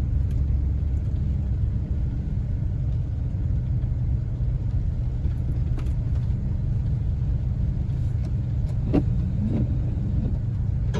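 Steady low rumble of a truck driving slowly, heard from inside the cab, with a few faint dings from the roof-mounted CB antenna striking overhanging branches.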